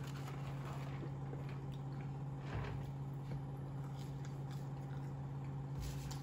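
Close-miked chewing of French fries, with small soft mouth clicks and a slightly louder bite about two and a half seconds in, over a steady low hum.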